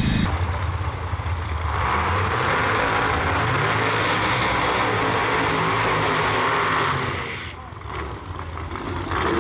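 Race car engine running hard at high revs for several seconds, then dropping away about seven and a half seconds in.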